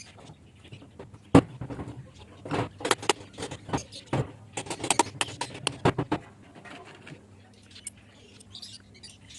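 Irregular sharp clicks and knocks, over a dozen in about five seconds with the loudest near the start, then only faint scattered ticks.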